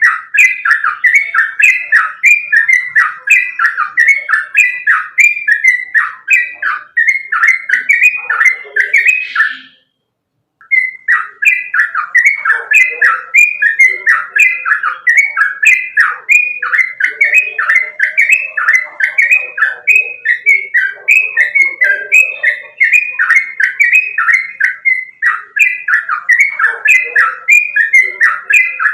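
Sooty-headed bulbul (trucukan) singing a fast, unbroken run of repeated chattering notes, about two to three a second. This is the rapid 'ropel' song used to train caged birds. The song drops out suddenly for about a second, about ten seconds in, then carries on.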